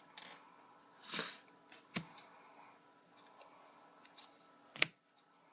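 Trading cards handled on a table: a short slide or rustle of a card about a second in, then a sharp tap at about two seconds and a louder one shortly before the end as cards are put down.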